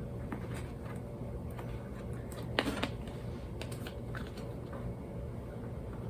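Hands rummaging through a drawer of baby socks: scattered small clicks and rustles, with a louder clatter about two and a half seconds in, over a steady low hum.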